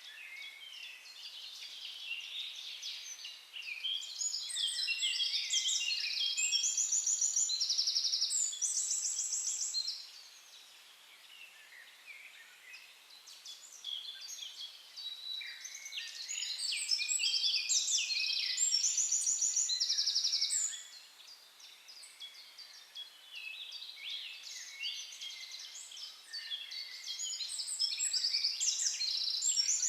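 Several songbirds singing at once, a dense mix of chirps and rapid high trills that swells in three bouts with quieter lulls between them.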